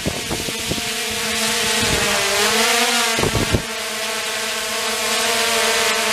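Car engine running at steady revs, its pitch dipping and rising back up partway through, with wind noise and a few short knocks.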